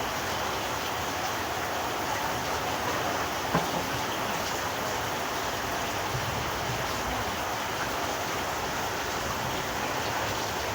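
Steady hiss of water, rain or flood runoff, with one sharp tap about three and a half seconds in.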